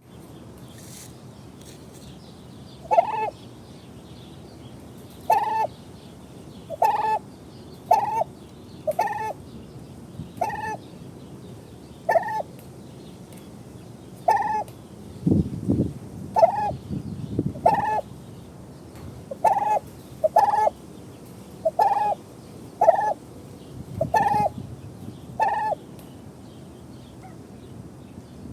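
A turkey calling over and over, short sharp calls every second or two. A couple of low bumps are heard near the middle.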